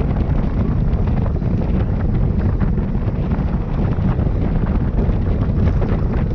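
Wind buffeting the microphone of a camera carried by a racing cyclist: a steady, loud low rumble with a fainter hiss above it.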